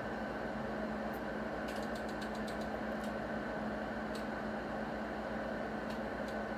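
Steady whir and hum of a power amplifier on the test bench, driven into a dummy load at about 100 watts, with a faint steady higher tone and a few light ticks.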